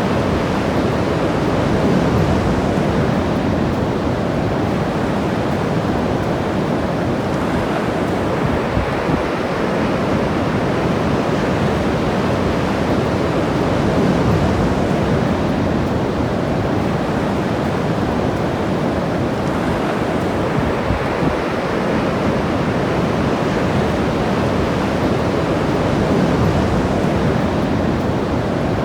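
Ocean surf washing onto the beach in a steady rush, swelling slightly a few times.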